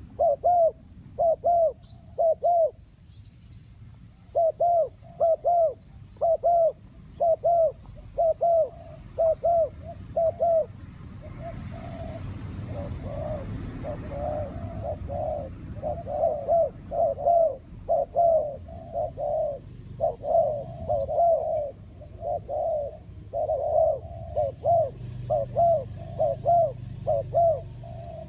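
Spotted dove cooing: short, repeated coo notes in quick groups, pausing briefly a few seconds in and then going on steadily. A soft rushing noise swells in the background near the middle.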